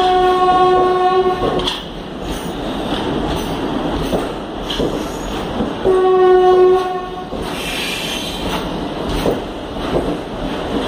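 Indian Railways ICF passenger coaches rolling past, their wheels clicking over the rail joints. A train horn sounds two blasts of about a second and a half each, one at the start and another about six seconds in.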